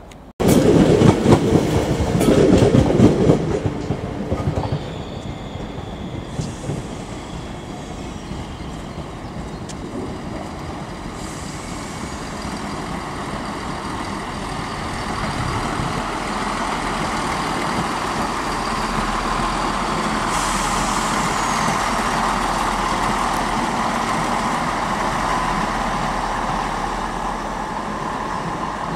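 Class 170 Turbostar diesel multiple unit running past on the station tracks. A loud burst of rattling and clattering starts suddenly about half a second in and lasts a few seconds. After that a steady rumble of engine and wheels grows louder from about halfway, with a faint whine near the end.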